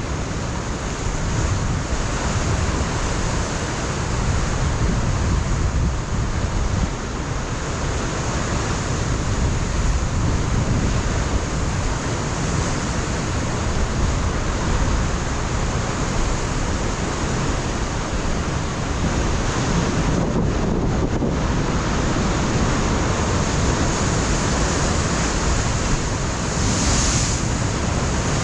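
Ocean waves breaking on a rocky coastline, a steady surf roar with wind buffeting the microphone.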